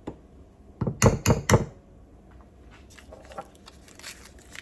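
A quick run of three or four sharp knocks about a second in, followed by faint rustling.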